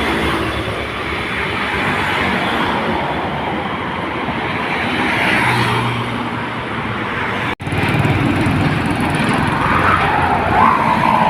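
Road traffic with box truck engines running and tyre noise as vehicles pass. It breaks off abruptly about seven and a half seconds in, then carries on. A faint wavering tone is heard near the end.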